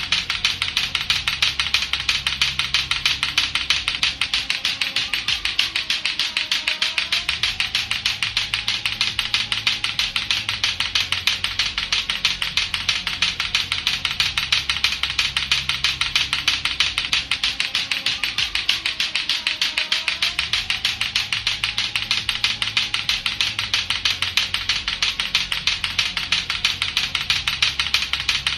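Latto-latto clackers, two hard plastic balls on a string, knocking together in a rapid, even clacking rhythm without a break.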